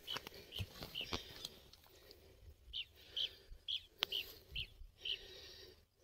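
A bird chirping over and over, short high notes about two a second, with a few sharp crunching steps on dry ground in the first second or so.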